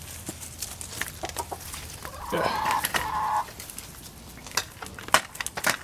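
Chickens clucking, with one drawn-out call of about a second starting about two seconds in, among scattered sharp clicks.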